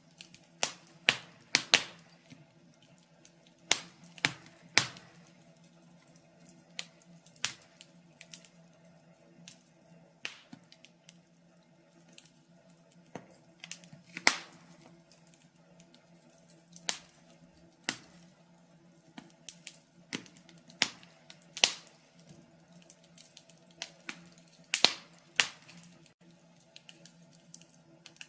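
Wood fire crackling: sharp, irregular pops and snaps, sometimes several in quick succession, over a faint steady low hum.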